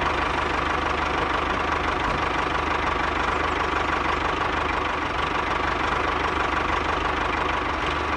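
Tractor engine running steadily at an even pace, with a fast knocking beat and a steady whine over it.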